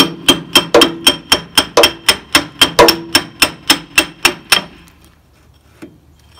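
Steady hammer blows on a home-made steel pin driver, about four strikes a second with a metallic ring, driving a pin on a backhoe; the hammering stops a little over halfway through.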